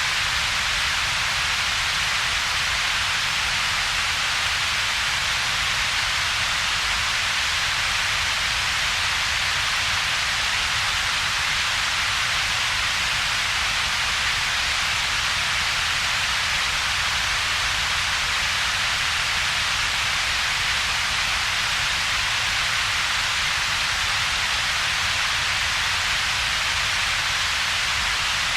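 Steady, unchanging synthetic double-peaked noise: a bright hiss centred high in the upper mids and treble, over a weaker low rumble, with a hollow gap between them in the low mids.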